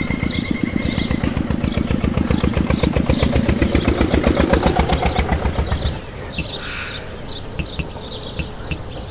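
Tractor engine chugging at a fast, even beat that stops abruptly about six seconds in. Small birds chirp throughout.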